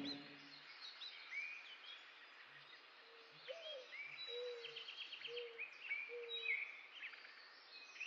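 Faint birdsong: many short chirps and rising and falling whistles from birds, with a lower whistle sounding five times in the middle and a quick trill about five seconds in.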